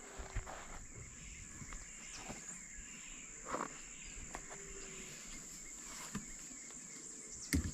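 Steady high-pitched chirring of insects such as crickets, faint, with a few soft knocks, the clearest about halfway through and just before the end.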